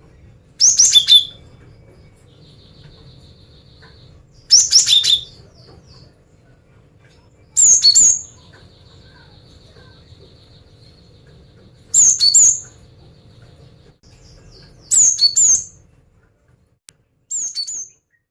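Female cinereous tit (gelatik batu) calling: six short bursts of sharp, high chip notes a few seconds apart, with a faint buzzy rattle between some of them.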